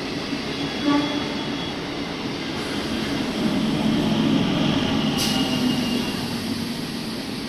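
Electric multiple-unit (EMU) suburban local train running along a platform: a steady rumble of wheels on rail that swells in the middle, with a thin high wheel squeal now and then and one sharp metallic click about five seconds in.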